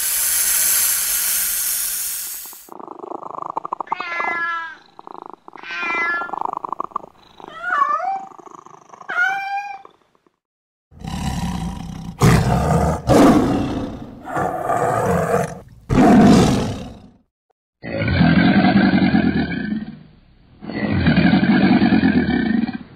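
A rattlesnake's hissing buzz for the first couple of seconds. Then a few squealing animal calls glide up and down over a rough rasp. After that, a tiger gives several loud growling roars, and near the end a caiman makes two deep, rumbling bellows.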